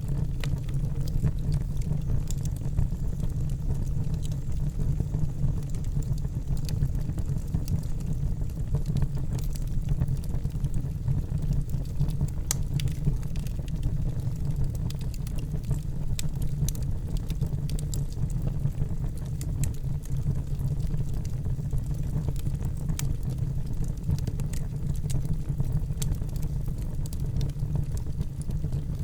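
Fire burning in a fireplace: a steady low rumble with irregular, scattered sharp crackles and pops.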